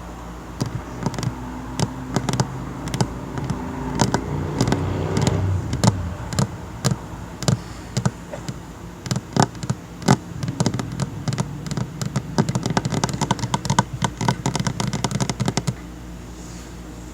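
Tapping on a tabletop: separate taps at first, then a quicker run of taps that stops shortly before the end.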